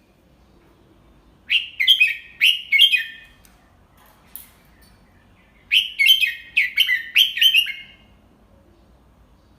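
Red-whiskered bulbul singing: two quick phrases of about five bright, clear notes each, a few seconds apart.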